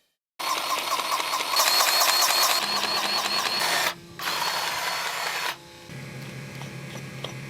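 A small motor-driven mechanism runs in two bursts, the first about three and a half seconds long and the second shorter, with a fast rhythmic pulse. A quieter steady low hum takes over near the end.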